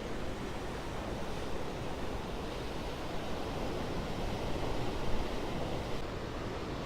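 Ocean surf washing onto the beach, a steady rushing noise, with some wind on the microphone.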